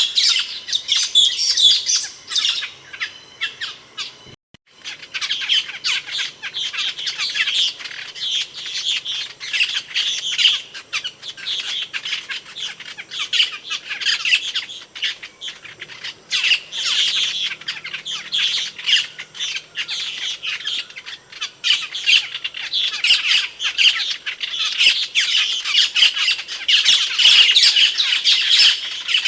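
Asian glossy starling calling: a dense run of rapid, sharp, high squeaky calls with a brief break about four seconds in.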